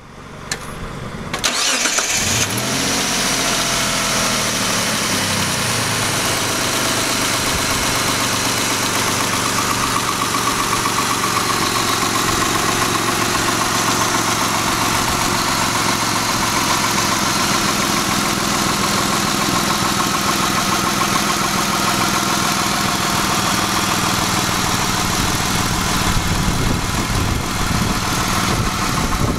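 2001 Mitsubishi Montero Sport's 3.0-litre 24-valve V6 starting up: it catches about a second and a half in, its revs swing for a few seconds, then it settles into a steady idle.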